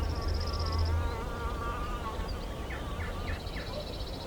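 A flying insect buzzing close by, a wavering drone that fades after about two seconds. Short rapid high trills at the start and near the end, and four brief chirps about three seconds in.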